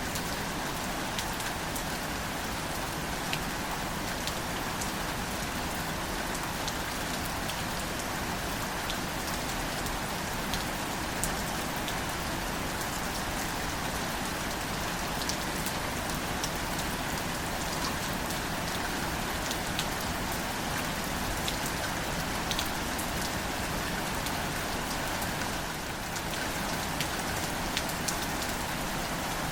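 Gentle, steady rain falling on wildflowers, with scattered single drops ticking out above the even patter.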